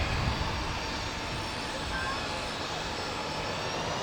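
Boeing 737-800's CFM56-7B jet engines running: a steady rumble under a thin whine that rises slowly in pitch.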